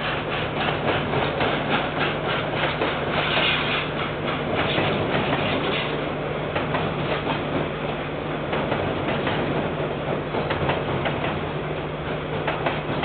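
KiwiRail train rolling past, its wheels clicking in a steady rhythm over the rail joints over a continuous rumble, with a steady low hum underneath.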